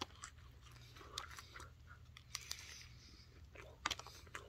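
A person chewing a mouthful of Crunchwrap Supreme, with faint, scattered crunches from its crisp tostada shell.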